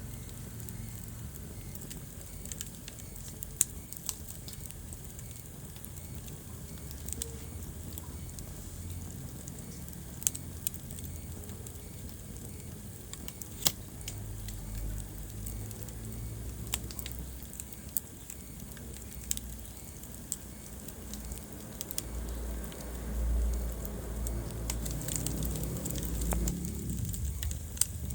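Wood fire burning in a fireplace: crackling, with sharp pops every few seconds over a low rumble of the flames that swells louder near the end.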